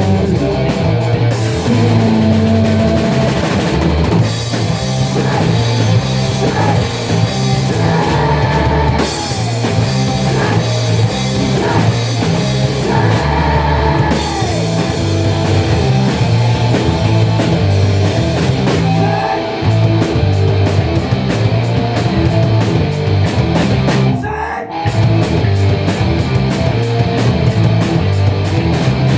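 Rock band playing, with drum kit and guitar. The music stops briefly about three-quarters of the way through, then carries on.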